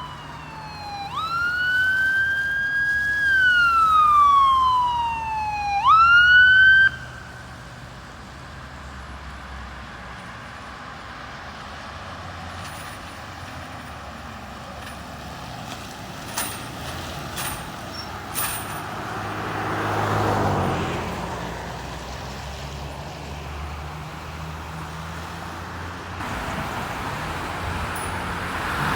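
Emergency vehicle siren wailing, each cycle rising quickly and falling slowly, then cutting off suddenly about seven seconds in. After it, a low steady rumble of vehicle engines, with a few short clicks and a vehicle passing about twenty seconds in.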